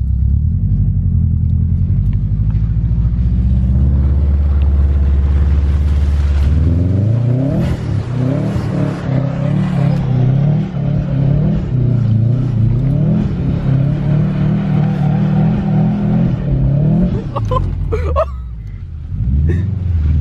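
Car engine running at a steady pitch, then from about six seconds in revving up and down repeatedly for about ten seconds, as in throttle work while sliding on snow.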